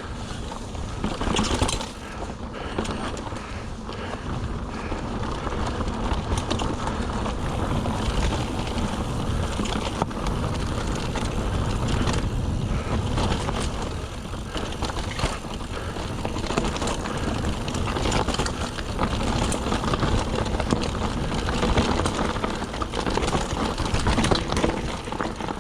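Mountain bike clattering down a rough descent over limestone rocks: tyres over stones and the bike rattling, with many small knocks and a steady low rumble.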